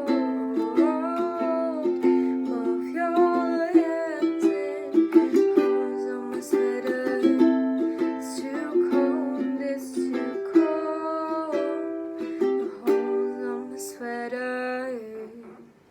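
Ukulele strumming and picking chords, with a wordless sung melody over it. The playing dies away just before the end as the song finishes.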